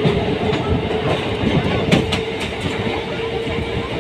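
Indian Railways train running along the track: a steady rumble and hum, with a cluster of sharp wheel clicks about two seconds in.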